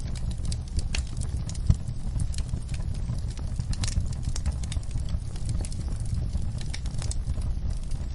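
Campfire burning, wood crackling with irregular sharp pops over a steady low rumble; one pop a little under two seconds in stands out louder.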